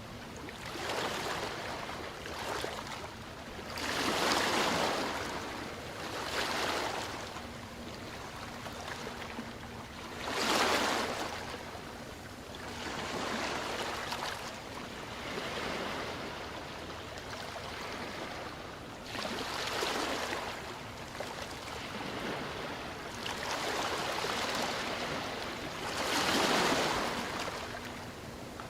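Ocean waves breaking and washing up, surging and falling away every few seconds. The biggest swells come about four seconds in, about ten seconds in, and near the end.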